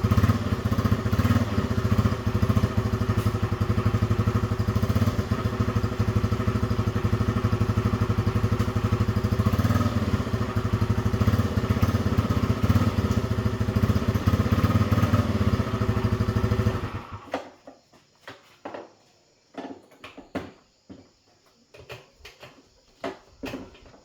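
A small scooter engine running steadily with slight rises and dips in speed, then shut off abruptly about 17 seconds in. A few light clicks and knocks follow.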